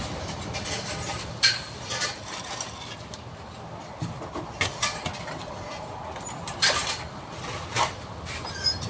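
Irregular sharp clinks and knocks of hard objects, about seven spread over the stretch, over a low steady background rumble.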